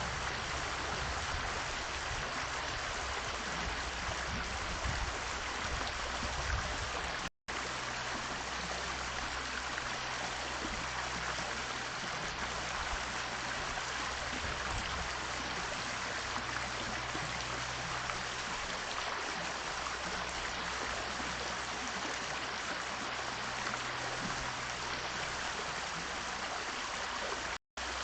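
Steady rushing noise like flowing water, with a faint low hum beneath it, broken by two brief drops to silence about seven seconds in and just before the end.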